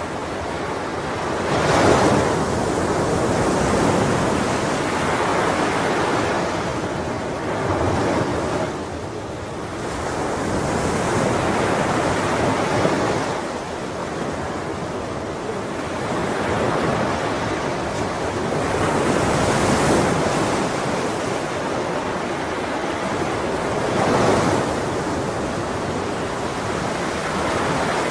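Ocean surf: waves breaking and washing in, the rush swelling and easing every few seconds.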